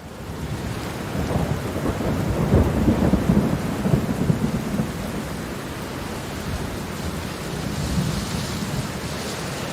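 Thunder rumbling over steady rain. The rumble fades in at the start, is loudest about three seconds in, then eases into a lower, steadier rumble under the rain.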